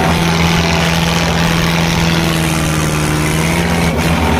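Tractor diesel engine running loud and steady at a constant pitch.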